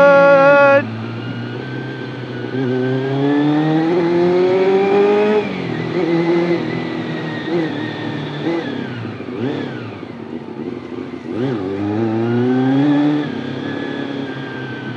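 Honda CBR400RR inline-four engine on the move: it holds high revs, then cuts off sharply less than a second in. It climbs steadily in pitch for about three seconds, drops back, gives a few short throttle blips, rises again and settles to a lower steady run near the end.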